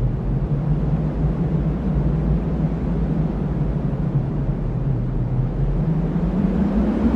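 Cyclone wind blowing in a steady low rumble, with a howling tone that slowly rises in pitch toward the end.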